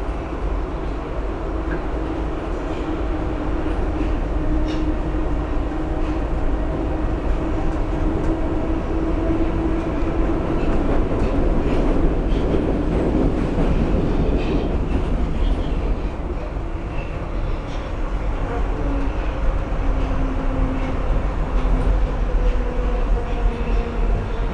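Budapest M2 metro train running through the tunnel: a steady rumble with motor whine that climbs slightly in pitch over the first half and falls away toward the end as the train slows.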